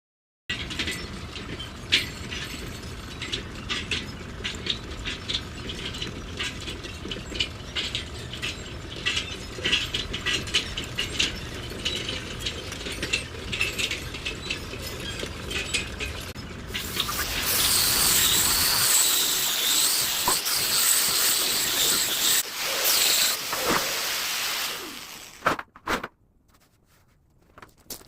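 Rust being cleaned off a steel tractor rim: scraping with irregular crackling over a low steady hum, then a louder hissing rush for several seconds that stops near the end.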